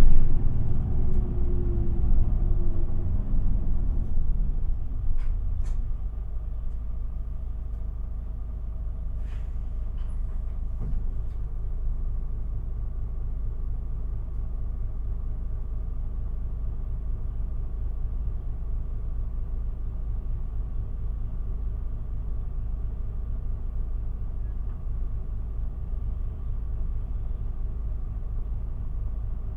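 Isuzu Erga city bus heard from inside the cabin: the engine and drive noise dies down over the first few seconds as the bus slows, then the engine settles into a steady idle rumble. A few faint clicks sound in the first third.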